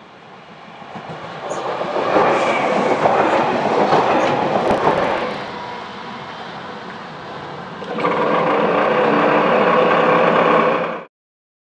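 Train passing close by on the station tracks: the rumble and rush builds over about two seconds to a loud peak, then eases off. About eight seconds in it swells again with a steady hum in several pitches, before the sound cuts off abruptly.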